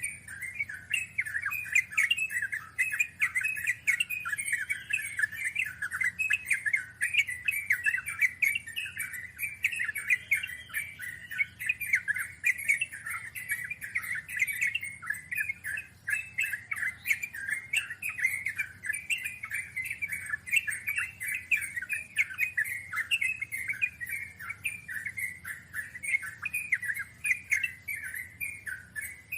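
Yellow-vented bulbul (trucukan) singing a long, unbroken run of fast chattering notes, many to the second, the drawn-out 'ngeropel' song.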